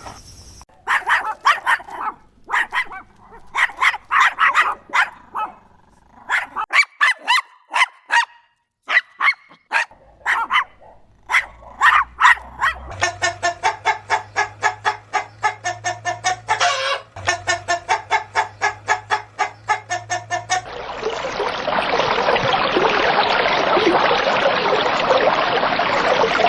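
Short animal calls repeated many times, then a fast, even run of calls. About 21 seconds in this gives way to a steady rushing noise.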